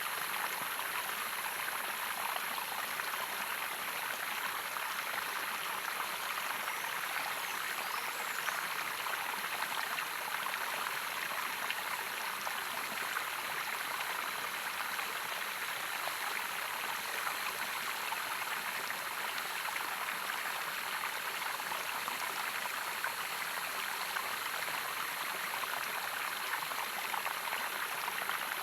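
Running water of a stream, an even, unbroken rush.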